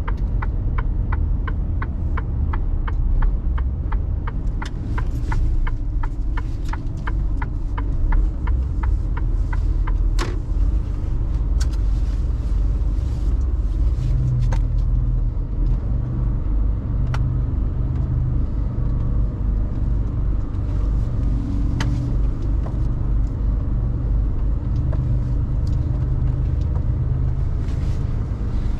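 Inside a Mercedes Actros truck cab while driving: steady engine and road rumble, with the turn indicator ticking evenly about twice a second until about eight seconds in. After that a few scattered clicks and knocks, and the engine note steadies low about halfway through.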